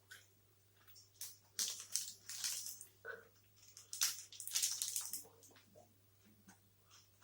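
Close-up chewing and mouth sounds of eating a blueberry protein bar, coming in two clusters of wet, crackly noise with softer clicks between.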